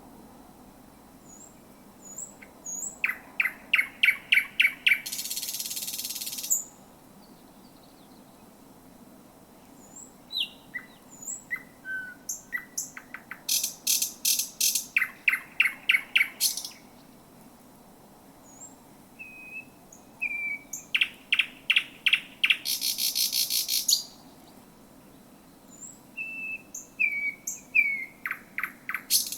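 Thrush nightingale singing: four phrases, each a fast run of repeated clicking notes that builds into a loud, harsh rattle, with short pauses holding a few soft whistled notes between them.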